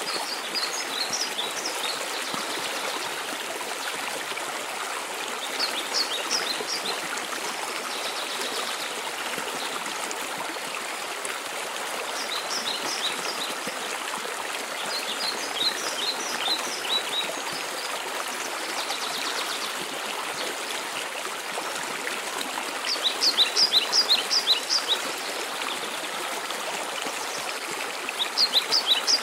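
Mountain waterfall rushing steadily. A small songbird repeats short runs of quick high chirps every few seconds, loudest in the last few seconds.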